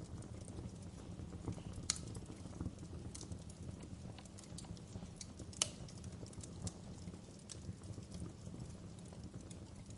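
Wood fire burning in a fireplace: a steady low rumble of flames under irregular crackles and pops of the burning logs, with two sharper snaps about two seconds in and a little past halfway.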